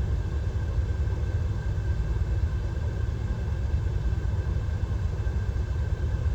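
Diesel engine of a DAF XF 530 lorry idling, heard from inside the cab as a steady low rumble with a thin, steady whine above it.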